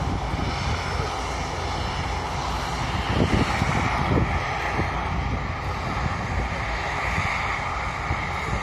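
Steady roar of a jet airliner's engines near the airport runway, mixed with strong wind buffeting the microphone.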